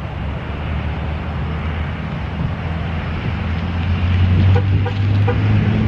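Low engine hum of a nearby motor vehicle over steady traffic noise, growing louder about four seconds in.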